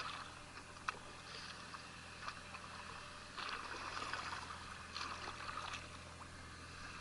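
Canoe paddle strokes: water splashing and trickling off the paddles alongside the hull, swelling about three and a half and five seconds in, with a single sharp knock about a second in and a low steady hum underneath.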